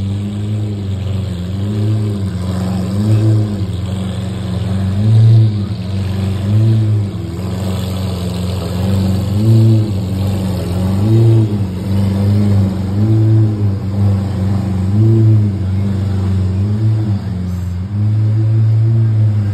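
Lamborghini Aventador's 6.5-litre V12 at a low idle, with short light throttle blips about every one and a half to two seconds that lift the engine note briefly and let it fall back.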